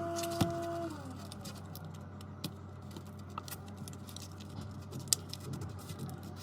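A small repair machine's electric motor hums steadily, then winds down in pitch and stops about a second in. Light clicks, taps and scratches of small tools working on the tablet follow, over a steady low hum.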